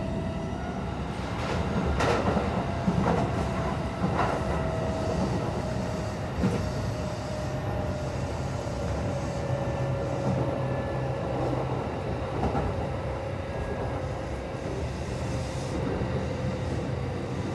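Kintetsu 2050 series field-chopper electric train running, heard from inside the passenger car: a steady rumble of wheels on rail with a humming tone that slowly falls in pitch, and several sharp clacks from rail joints.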